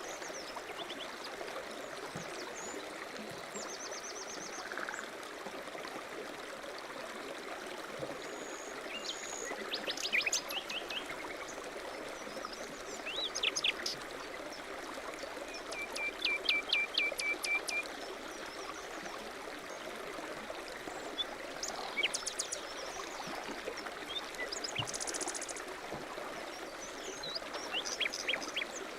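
A stream running steadily, with songbirds chirping and trilling several times over it, among them a rapid run of high notes about halfway through.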